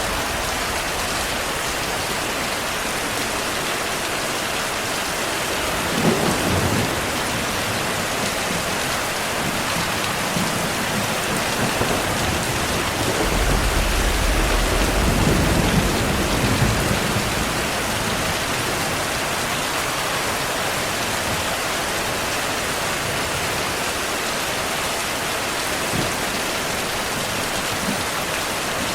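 Steady heavy rain hissing, with thunder: a sharp crack about six seconds in and a longer low rumble a few seconds later.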